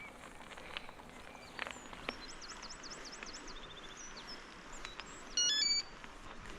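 A small bird chirping in a quick series of high notes over a faint outdoor background with scattered clicks. About five and a half seconds in, a brief loud chime of several stepped high tones, like a short electronic beep, sounds for about half a second.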